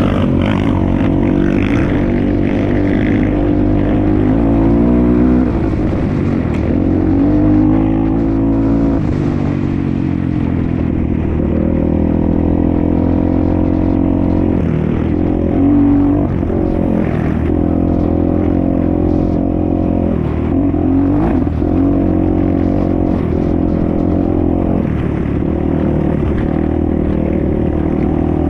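Enduro motorcycle engine running hard off-road, its pitch rising and falling again and again as the throttle opens and closes.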